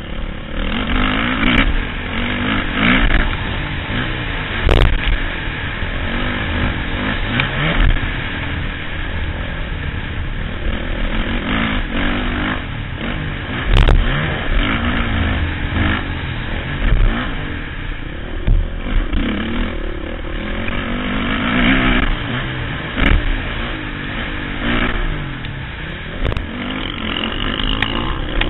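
Motocross motorcycle engine revving hard and dropping back again and again as the bike is ridden round a track, heard from the rider's helmet, with two sharp knocks, about five and fourteen seconds in.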